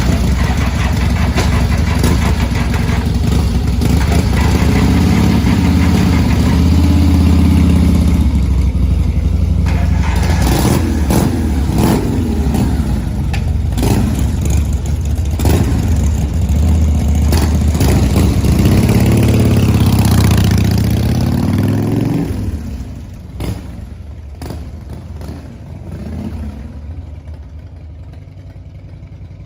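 Early Mitsubishi Lancer Evolution's turbocharged four-cylinder engine being cranked hard and struggling into life, its revs rising and falling unevenly. About 22 seconds in it drops sharply to a much quieter, low running sound. The owner fears that cranking like this could break the starter's one-way clutch.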